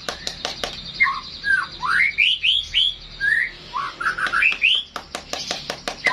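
White-rumped shama (murai batu) singing: a run of short, rising whistled notes, with quick runs of sharp clicks near the start and again about five seconds in, over a steady high hiss.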